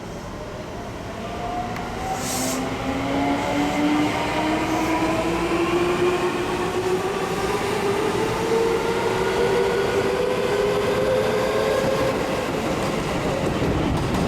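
Seibu 10000 series New Red Arrow (5th batch) electric train accelerating: its 3-level IGBT VVVF inverter and traction motors give a whine of several stacked tones rising steadily in pitch, over the rumble of wheels on rail.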